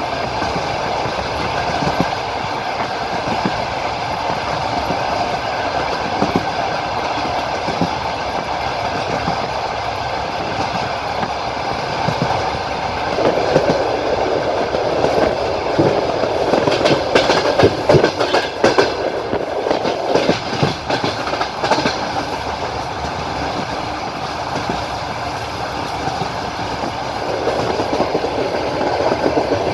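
Passenger train carriage wheels clacking over rail joints at running speed, heard from on board over a steady rolling rumble. In the middle the clatter grows louder and busier for several seconds, then settles back to the regular beat.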